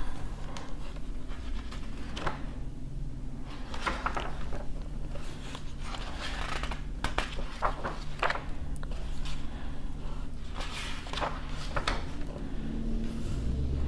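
Pages of an old book being turned and handled: irregular paper rustles and crinkles with soft taps and clicks, over a faint low steady hum.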